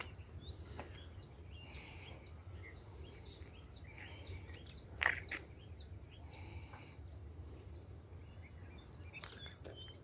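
Small birds chirping faintly in dry scrub woodland: many short, scattered calls, with one louder, sharper note about five seconds in, over a low steady rumble.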